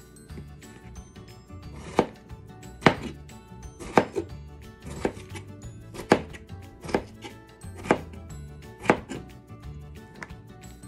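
Kitchen knife slicing raw peeled potatoes on a plastic cutting board. About eight sharp knocks of the blade striking the board come roughly once a second.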